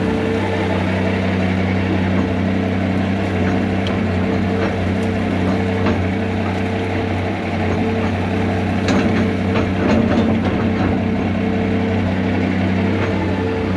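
Heavy diesel equipment engine running steadily under load, with a cluster of sharp cracks and clicks about nine to eleven seconds in.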